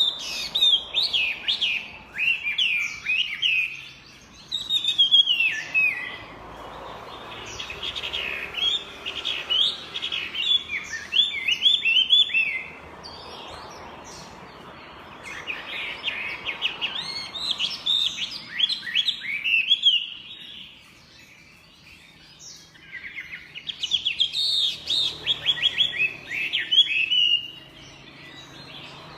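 Chinese hwamei (melodious laughingthrush) singing: fast runs of varied whistled notes, rising and falling, in five bouts of a few seconds each with short pauses between.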